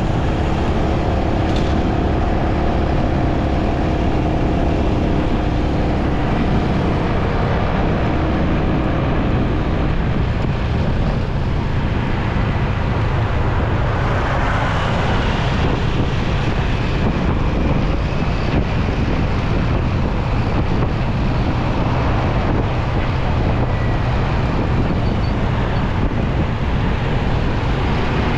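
Motorcycle engine and road noise while riding in heavy city traffic, steady and loud, with other vehicles running close by.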